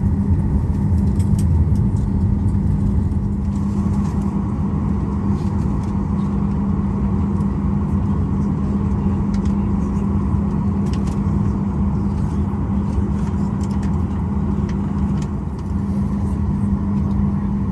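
Boeing 737-800's CFM56-7B jet engines droning steadily at taxi idle, heard from inside the passenger cabin. A higher steady whine joins the low drone about three and a half seconds in.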